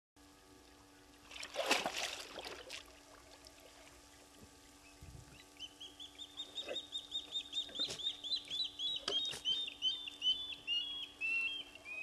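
A bird calling: a fast run of whistled notes, about four a second, that slows and drops in pitch near the end. About two seconds in, a brief rushing noise is louder than the calls.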